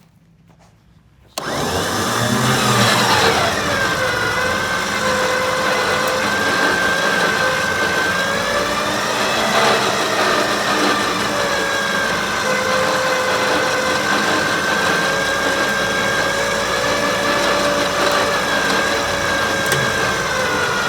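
Electric winch motor starting up about a second and a half in and running steadily under load as it hauls a pickup truck onto a trailer. It is a steady whine that drops in pitch as the line takes up the strain, then holds.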